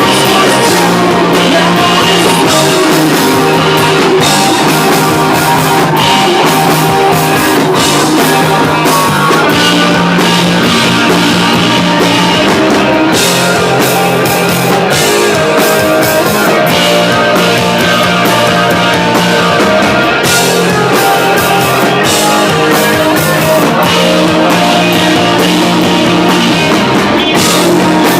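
Live rock band playing loud and without a break: electric guitars over a drum kit, in a punk-leaning rock song.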